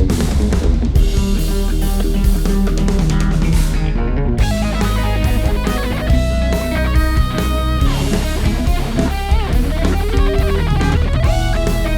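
Electric guitar played through an EarthQuaker Devices Grand Orbiter phaser pedal, sounding held notes and chords with a few bends, over bass guitar and drums.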